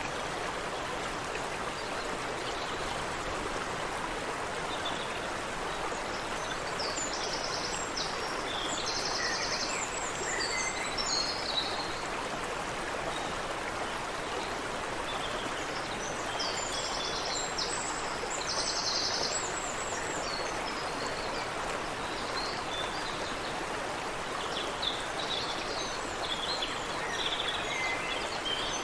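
Water running steadily in a stream, with small birds singing high-pitched phrases and rapid trills over it in three spells.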